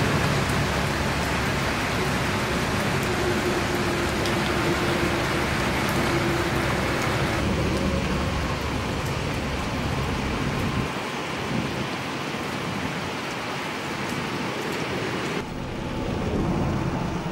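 Steady rain falling, an even hiss that shifts abruptly in tone about seven and a half and fifteen seconds in.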